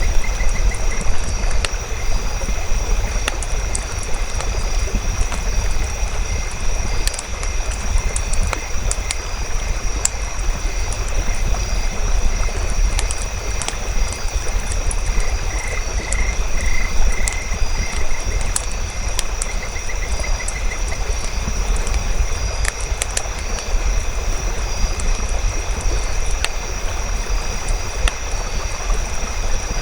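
Campfire crackling with scattered sharp pops over a low rumble, layered with a night nature ambience of steady high chirping and short runs of rapid pulsed calls.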